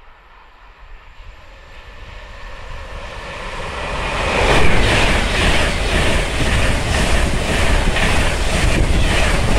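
InterCity 225 train hauled by a Class 91 electric locomotive approaching and passing. It swells from a faint hiss to a loud rush over about four seconds, then keeps up a steady clatter of wheels over rail joints, about two beats a second.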